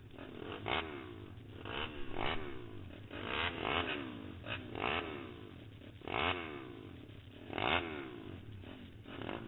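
Pitster Pro LXR160 pit bike's small single-cylinder engine running, its throttle blipped about eight times so the pitch keeps rising and falling in short surges.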